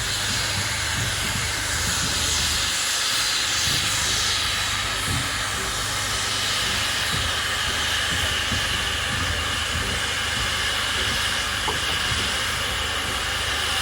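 Safety valves of the LNER Peppercorn A1 Pacific steam locomotive 60163 Tornado blowing off in a steady, loud hiss of steam. The valves have lifted because the boiler has reached full working pressure.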